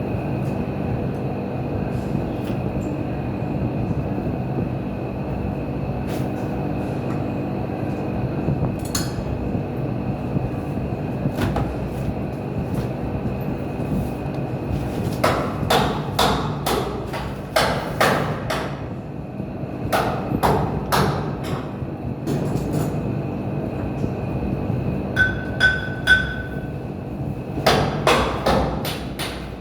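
Hammer strikes in quick groups, starting about halfway through, over a steady low machine hum.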